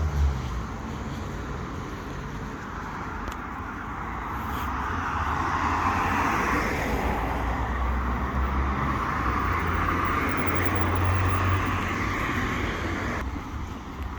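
Street traffic noise: a steady low rumble, with a passing vehicle's noise swelling from about a third of the way in and fading near the end.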